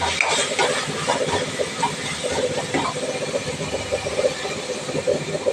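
Mint leaves frying in hot oil in a pan with tomato and onion masala: a steady sizzle with many small irregular crackles and pops.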